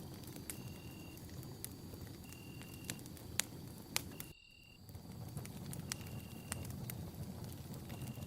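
Campfire burning, with a steady low rumble and frequent sharp crackles and pops, the loudest two a little past the middle. A short high note repeats every couple of seconds behind it.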